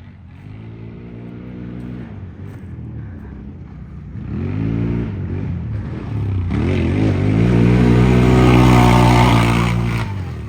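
ATV engine revving hard, its pitch rising and falling several times as the throttle is worked. It gets loudest from about six to ten seconds in, then drops away.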